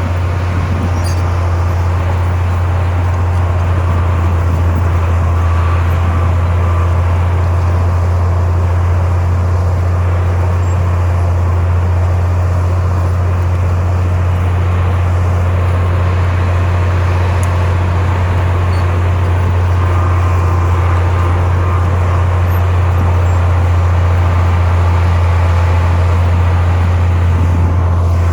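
Heavy diesel construction machinery running at a steady engine speed, a constant low hum with rumbling noise above it.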